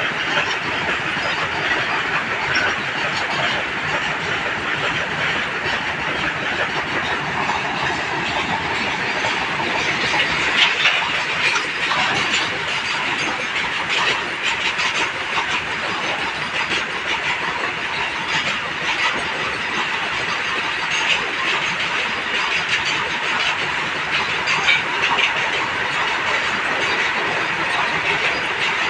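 Heavily loaded train running through a curve: a steady rumble and rush of wagon wheels on the rails, with scattered rail-joint clicks that come more thickly about ten to sixteen seconds in.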